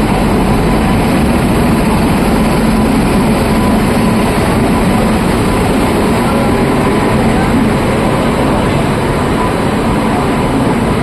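Steady running noise of a moving Indian Railways passenger train, heard from inside the coach.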